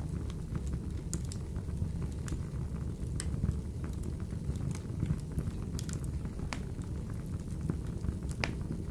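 Wood fire burning in a wood-burner stove: a steady low rumble of the flames with irregular crackles and small pops, one louder pop near the end.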